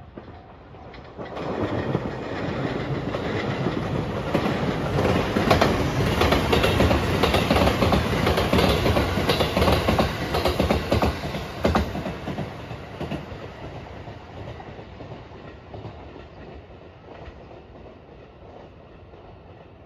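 Rapid Marine Liner electric train (JR 223-5000 series cars coupled to a 5000 series double-decker) passing close by, its wheels clicking over the rail joints. It comes in about two seconds in, is loudest through the middle, and fades away after about twelve seconds.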